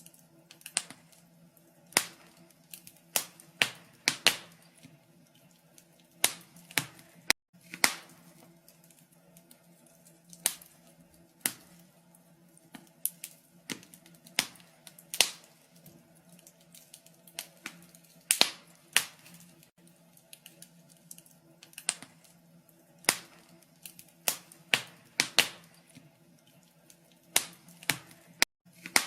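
Wood fire crackling in a fireplace: irregular sharp pops and snaps, one to three a second, some louder than others, over a faint steady low hum.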